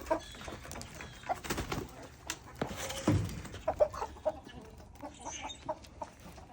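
Backyard hens clucking softly in short, scattered calls as they come out of the coop, with a few brief knocks and rustles in between.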